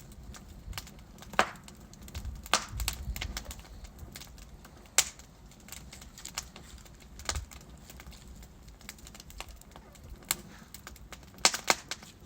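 Wood fire burning in a fireplace: logs crackling with irregular sharp pops and snaps over a low rumble of flame, the loudest pops about five seconds in and near the end.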